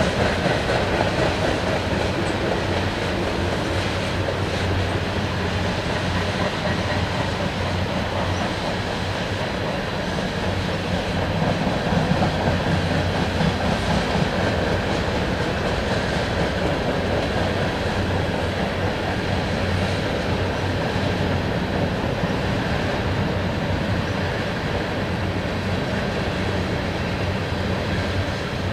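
Freight train cars rolling steadily past at slow speed, a continuous rumble with the wheels clicking over rail joints.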